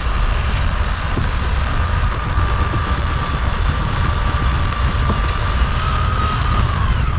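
A motorised machine running steadily: a low rumble under a steady high whine, and the whine dips away near the end.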